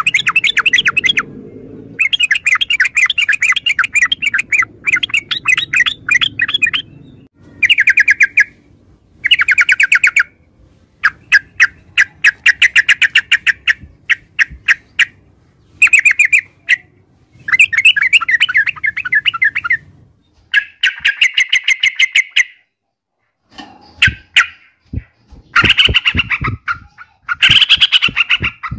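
Yellow-vented bulbul singing: loud phrases of quick, bubbly chattering notes, repeated with short pauses between them. Sharp clicks join in near the end.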